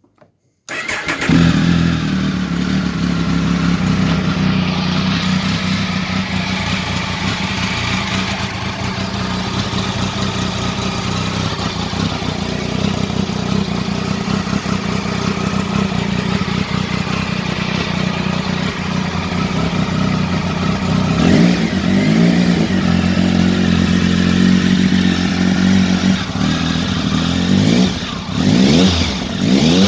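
Triumph Tiger 955's three-cylinder engine running at a steady idle, with the throttle blipped once about two-thirds of the way through and a few quick revs near the end.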